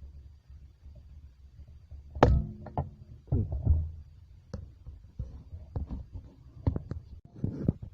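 Irregular knocks, taps and clicks, the loudest a thud a little over two seconds in.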